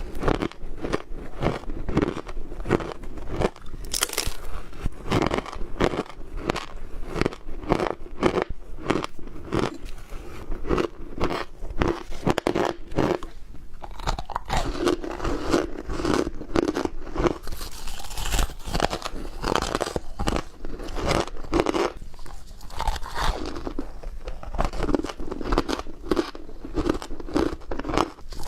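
Ice being bitten and chewed close to the microphone: a continuous run of crisp, rapid crunches with no pause.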